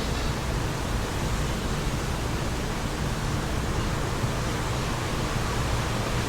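Steady wind blowing, a dense even hiss with a low rumble underneath.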